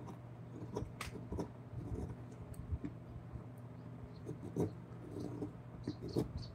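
Irregular light taps, clicks and short scrapes of hand tools working on wood, over a steady low hum.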